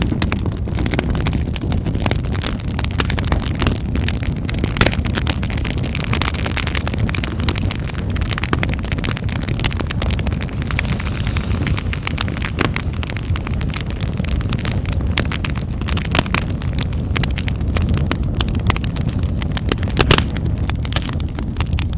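Wood fire crackling in a fireplace: many sharp pops and snaps over a steady low rumble of the burning fire.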